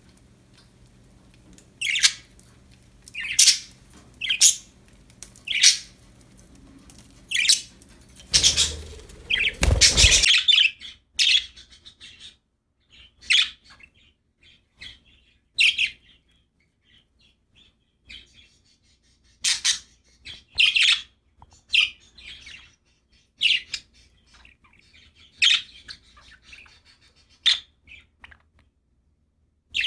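Budgerigars chirping: short, high chirps every second or two, with a louder, fuller burst of calls and a low rumble around eight to ten seconds in.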